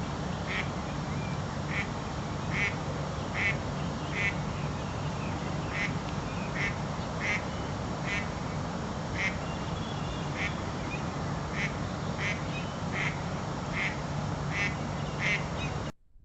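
A bird calling over and over, a short call roughly once a second, over a steady background hum and hiss. The sound cuts out just before the end.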